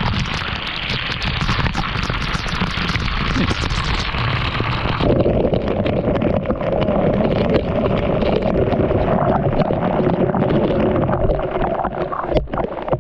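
Waterfall pouring close to the microphone, a loud steady rushing of falling water; about five seconds in the rush turns duller and deeper.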